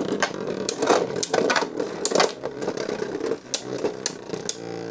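Two Beyblade Burst tops spinning in a plastic stadium with a steady whirring hum, clashing against each other in a string of sharp clicks.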